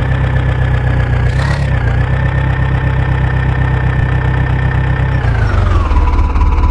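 Diesel engine of a backhoe loader or tractor running steadily, with a whine over a low hum. Its speed drops about five and a half seconds in and settles lower. A brief hiss comes about a second and a half in.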